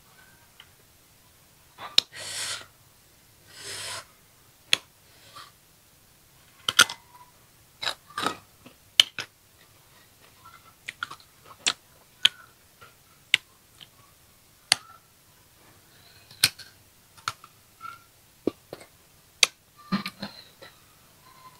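Crunching and chewing of crisp green ambarella (cóc) fruit coated in salt and chili: sharp, crisp cracks come irregularly, about one a second. Two brief hissing sounds come about two and four seconds in.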